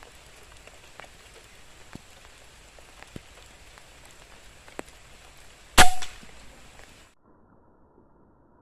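A single air rifle shot about six seconds in, a sharp crack with a brief ringing tail, over a faint patter of rain drips. The sound cuts out abruptly about a second after the shot.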